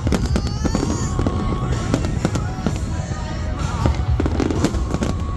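Fireworks going off in quick succession: many sharp bangs over a continuous deep rumble, with a rising whistle in the first second.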